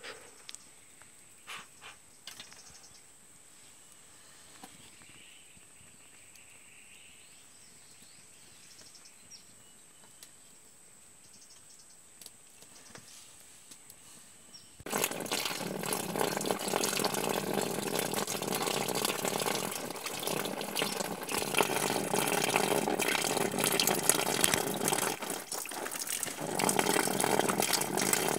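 Faint clicks over a thin, steady high whine, then about halfway through a sudden loud, steady rush of running water.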